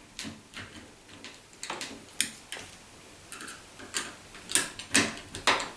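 Irregular light metallic clicks and ticks as the fixing screw of a door handle is turned in the threaded post joining the two handle plates, backed out and re-started after cross-threading. The clicks come more often and louder in the last second and a half.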